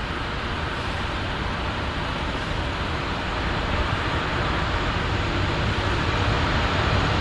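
Freight train hauled by an E.652 electric locomotive approaching: a steady rumble and rush of noise that grows slowly louder.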